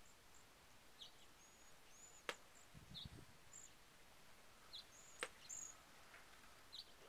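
Faint, short, high chirps from small birds, repeating about once a second. Two sharp clicks stand out above them, about two seconds and five seconds in.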